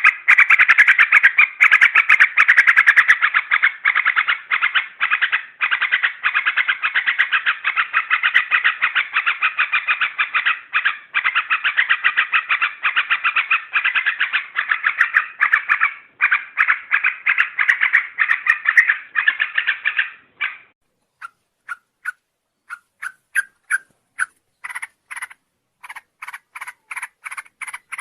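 Yellow-vented bulbul (trucuk) song played as a lure call: a dense, rapid run of chattering notes. About 20 seconds in it breaks off, and short separate calls follow, coming quicker toward the end.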